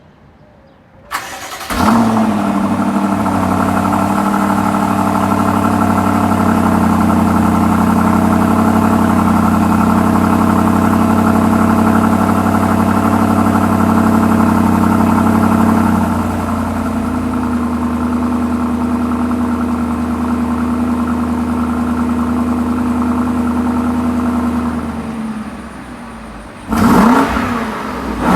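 A 2019 BMW X5's engine starts with a click and a quick flare about two seconds in, then idles steadily. A little past halfway the idle steps down slightly and settles. Near the end it gives one short rev that rises and falls.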